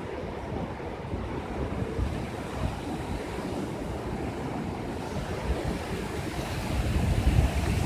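Rushing, surging water with wind buffeting the microphone in low rumbles, growing louder about seven seconds in.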